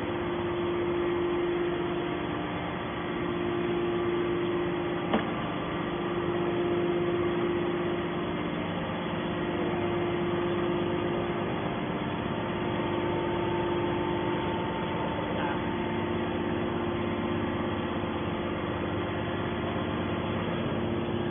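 Scrap metal baler running with a steady machine hum made of several constant tones, and a single sharp knock about five seconds in.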